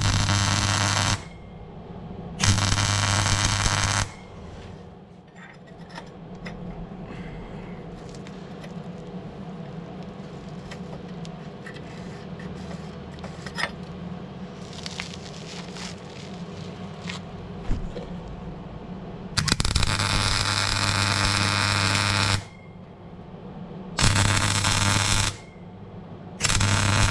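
MIG welder arc crackling and buzzing in short bursts as welds are laid: two brief runs at the start, a longer run of about three seconds two-thirds of the way through, and two more near the end. Each starts and stops sharply. Between the bursts there is quieter workshop noise with scattered clicks.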